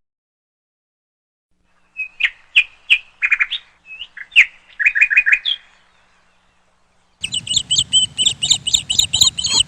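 Bird chirping in two bouts. A run of short, sharp chirps and trills starts about two seconds in. After a short pause comes a faster, higher string of chirps over a low hum near the end.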